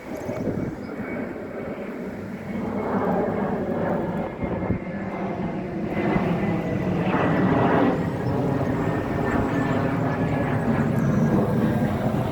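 Loud droning of a passing vehicle with a steady pitched hum. It swells about three seconds in and stays strong.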